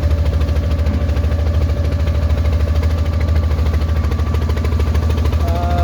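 Boat engine running steadily with a deep, fast, even throb, heard on board. A voice begins near the end.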